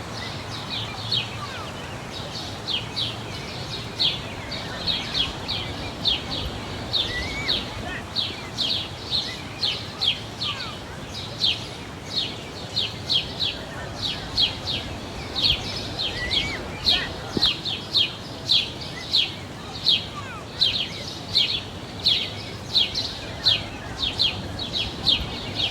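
Small birds chirping: short, high chirps repeated a few times a second, over a steady low background hum.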